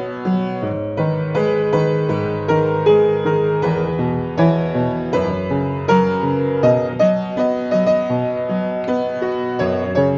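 Piano music: a slow melody played over sustained chords, with new notes struck about every half second.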